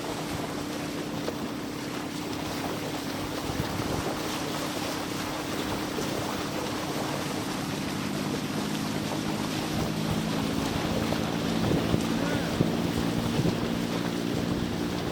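Wind buffeting the microphone over the steady low hum of a running engine. The hum's pitch lines shift and thicken from about halfway through.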